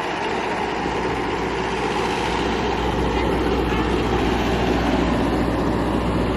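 Motorcycle engine running steadily, with a low rumble that grows a little louder about two seconds in.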